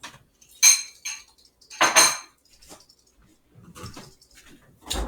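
Hard objects clinking and clattering, a few separate sharp knocks with a brief metallic or ceramic ring, like dishes or cutlery being handled.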